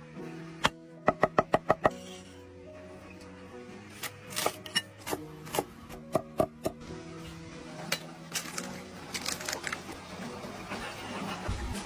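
Background music with held notes, over a run of sharp knocks from food being chopped with a knife on a board: five quick strokes about a second in, then more in short clusters.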